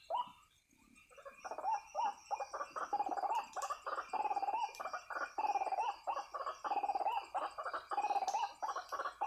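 White-breasted waterhen calling: after a brief lull, a fast, continuous run of repeated 'ruak' calls starts about a second in. Underneath runs a steady high-pitched background chorus.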